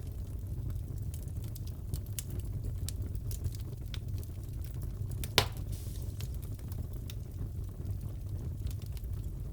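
Wood fire crackling in a fireplace: scattered small pops and snaps over a steady low rumble, with one sharper, louder pop a little past the middle.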